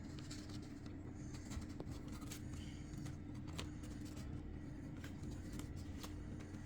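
Faint, scattered small taps and scrapes of wooden number cut-outs being handled and set on a board, over a steady low hum.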